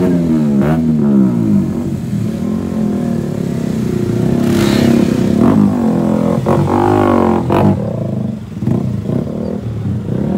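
Modified car engine revving repeatedly, its pitch rising and falling, with several sharp cracks.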